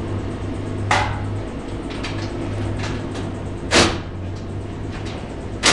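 Sharp knocks and clanks of stainless steel duct being handled and fitted, three distinct strikes spread over several seconds, with a steady low hum underneath.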